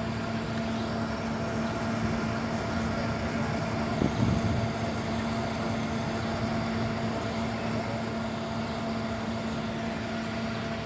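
Car engines idling in a line of waiting cars, a steady hum, with a brief thump about four seconds in.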